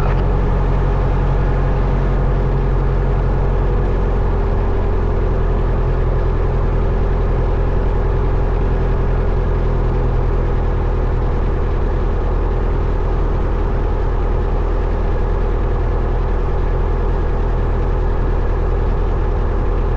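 Single-engine Cessna 172 Skyhawk's piston engine and propeller running steadily at low power, heard from inside the cockpit, with an even drone that does not change.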